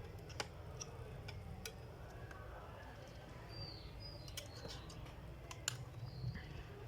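Faint, irregular clicks and taps from a laptop's plastic screen parts and small tools being handled during disassembly, over a steady low hum.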